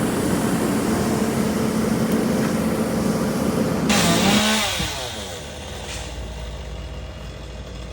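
Two-stroke chainsaw running at high revs, then let off about four seconds in, its pitch falling as it drops back to a quieter idle.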